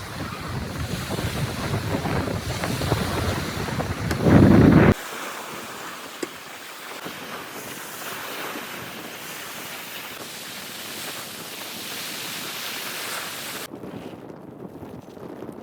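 Wind buffeting the microphone over the wash of the sea, with a louder gust about four seconds in. About five seconds in the low rumble cuts off, leaving a steady hiss of wind and water that drops away near the end.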